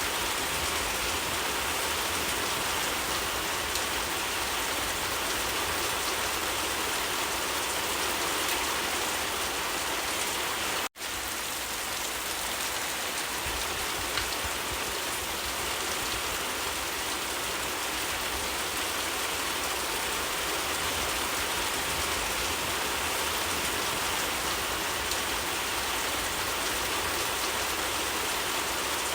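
Steady rain falling and pattering on surfaces, an even hiss without a break in intensity. The sound cuts out for an instant about eleven seconds in, then resumes unchanged.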